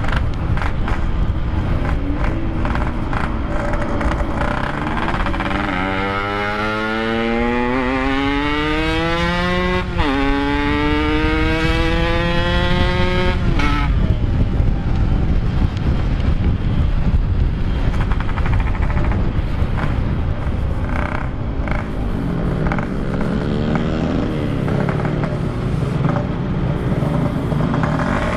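Yamaha RX-King 135 cc two-stroke single accelerating hard, its pitch rising, dropping at a gear change about ten seconds in, then rising again and breaking off near fourteen seconds; a shorter rev follows later. Wind and road rush on the helmet-camera microphone run under it.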